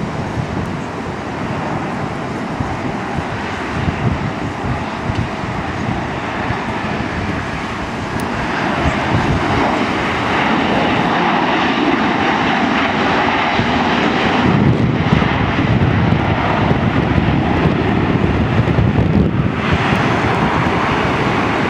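Boeing 737-800 jet landing, its CFM56 turbofan engines giving a continuous loud rushing that grows louder about eight seconds in, with gusting wind on the microphone.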